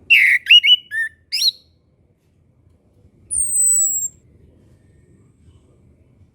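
Chestnut-capped thrush (anis kembang) singing: a quick phrase of short up-and-down whistled notes lasting about a second and a half, then one long high whistle that falls slightly in pitch.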